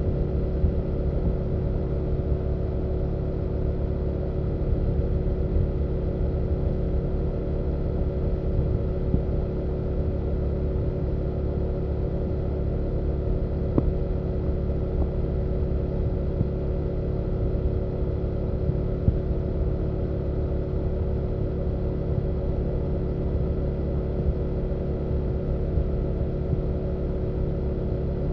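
BMW F800GS parallel-twin engine and exhaust running at a steady, unchanging pitch while the motorcycle cruises at constant speed, with a low rumble underneath.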